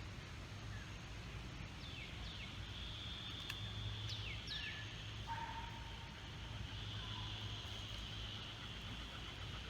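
Outdoor ambience: a bird gives several quick down-slurred whistles in the middle, over a steady high buzz and a low rumble.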